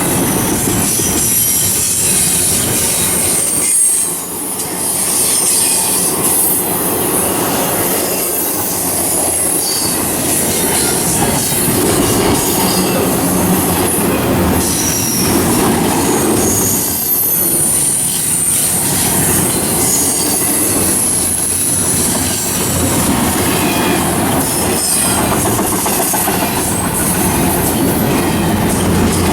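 A train rolling past on nearby tracks: a steady loud rumble and clatter of railcars, with the wheels squealing high and thin again and again.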